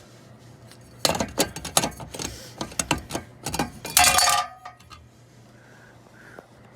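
Clicks, scrapes and clinks as the cover over a ceiling fan's ball-socket mount is worked loose and slid off by hand, with one loud ringing clink about four seconds in.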